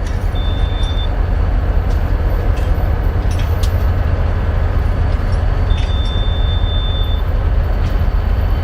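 Steady low rumble of a train, with a faint high-pitched whine that comes in twice, briefly near the start and again for about a second and a half in the second half.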